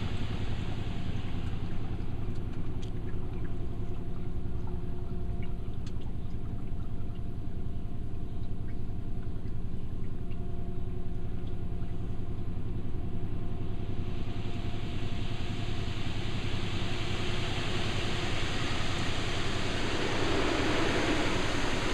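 Ryko SoftGloss Maxx automatic car wash heard from inside the car: a steady mechanical hum. About two-thirds of the way through, a hiss of water spraying onto the car begins and keeps on.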